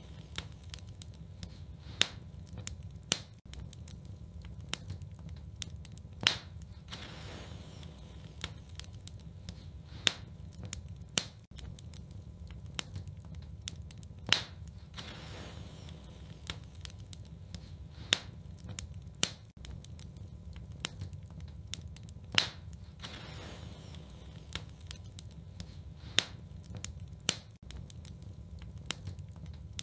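Fire in a fireplace crackling, with a steady low rumble of the flames and frequent sharp pops, a few of them much louder than the rest.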